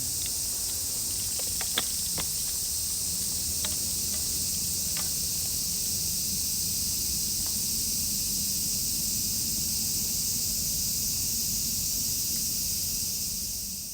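Steady high-pitched chorus of insects in woodland, with a few sharp faint clicks in the first few seconds; it fades out at the very end.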